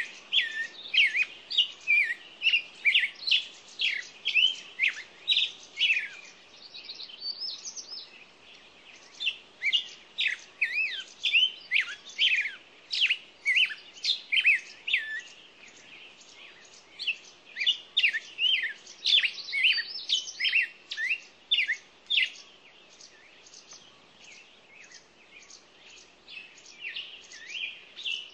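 Many small birds chirping and calling together in rapid, overlapping short chirps, easing off for a few seconds twice before picking up again.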